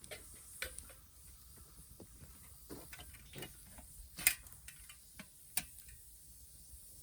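Wood fire crackling: irregular sharp clicks and pops, with two louder pops about four and five and a half seconds in.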